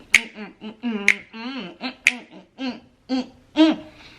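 Crisp finger snaps about once a second, with a woman's voice vocalizing a wordless tune in between.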